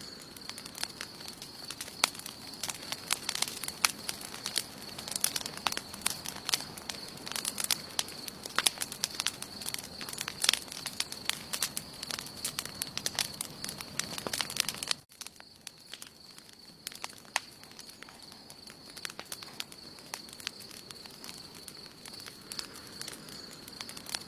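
Wood campfire crackling, with many sharp pops. About fifteen seconds in the sound drops abruptly to a quieter, sparser crackle, and a steady faint high-pitched tone runs underneath.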